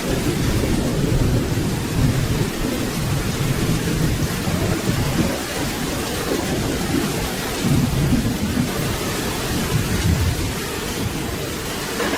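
Steady rain with low rolling thunder rumbling underneath, the rumble swelling and easing several times.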